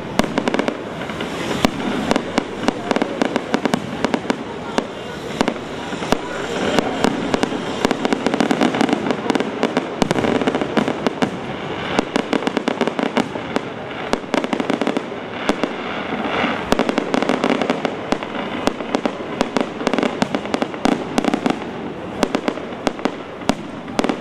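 Fireworks display: aerial shells bursting and ground-level crackling effects going off in rapid succession, sharp pops and bangs coming many times a second with no let-up.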